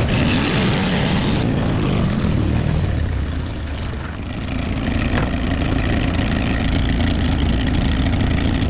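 Car engine running steadily, easing off briefly about four seconds in and picking up again, then cutting off abruptly at the end.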